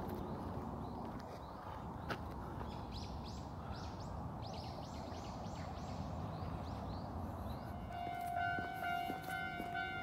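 Steady outdoor background noise with a bird chirping repeatedly, a rapid run of short high notes through the middle. About eight seconds in, two sustained steady tones, one higher than the other, begin.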